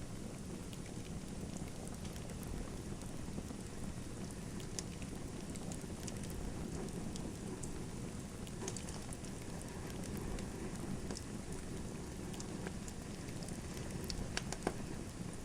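Wood fire in a fireplace crackling: a steady low rumble and hiss of burning, with scattered sharp crackles and a couple of louder pops near the end.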